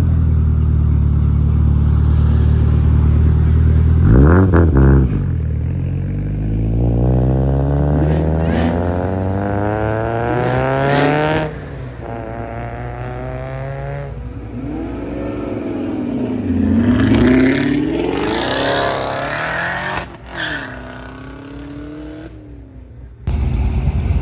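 Car engines at a car meet: a loud engine running steadily, then a quick rev. Next comes a car accelerating hard, its engine pitch climbing for several seconds before cutting off. Later, engine revs rise and fall several times.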